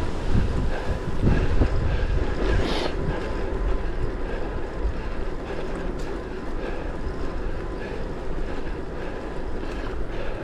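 Wind buffeting the microphone over steady rolling tyre and road noise from a moving electric hybrid bike, with a brief hiss a little under three seconds in.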